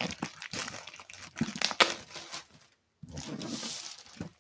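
Cardboard box and packaging being handled and opened: a run of sharp cracks, clicks and rustles, cut by a brief gap about three seconds in and followed by steadier rustling.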